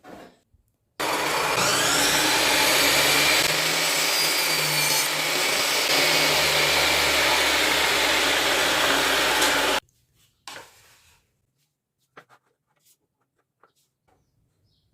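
A power tool running steadily for about nine seconds, starting and stopping suddenly, with a faint high whine over the noise of its motor.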